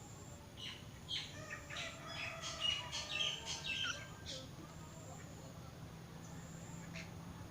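Young Oriental magpie-robin practising its soft, slow twittering subsong: a run of short high chirps and notes for about four seconds, then a single short note near the end.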